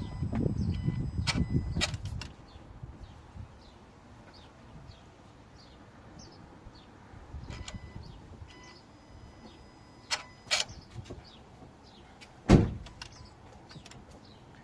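A 1.2 TSI car engine shutting off, its low rumble dying away over the first two seconds, followed by a few sharp clicks and a single heavy thump about twelve and a half seconds in.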